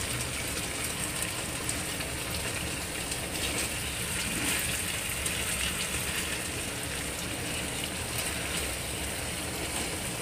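Chicken wings and tofu sizzling in oily liquid in a frying pan, a steady hiss with fine pops.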